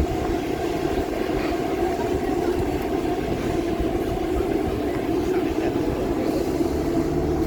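Class 158 diesel multiple unit idling in the station with a steady drone that does not change in pitch or level.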